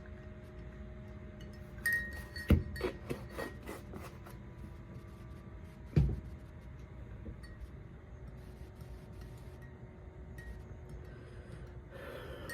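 A spoon clinking against a coffee mug a handful of times about two seconds in, then a single knock about six seconds in.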